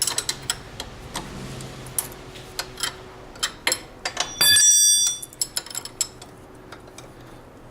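Steel hand tools (wrench and socket) working a tight suspension bolt on a snowmobile, giving irregular metallic clicks and clinks. About four and a half seconds in there is one louder clang that rings on briefly.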